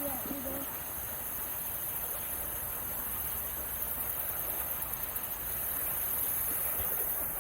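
Steady high-pitched hiss of an insect chorus, with a low rumble underneath.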